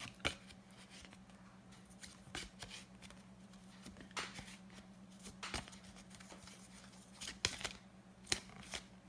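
Faint, irregular papery clicks of a pack of flashcards being flicked through one card at a time, over a low steady hum.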